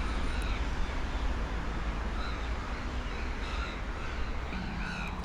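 Birds calling: a string of short calls, mostly in the second half, over a steady low background rumble.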